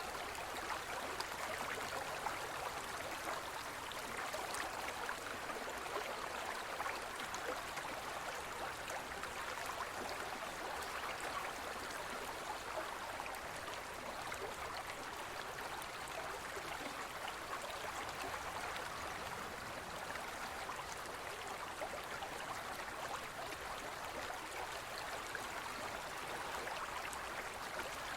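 A small forest river running over stones, a steady flow of rushing and babbling water.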